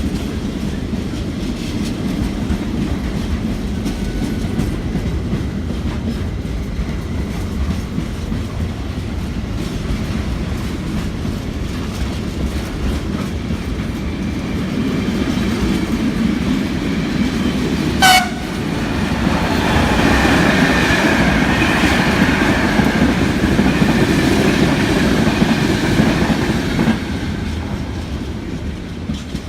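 A train running through the station with a steady rumble and wheel clatter on the rails. About two-thirds of the way in comes a very short horn toot. The passing then grows louder, with a high whine over the wheels, before it starts to die away near the end.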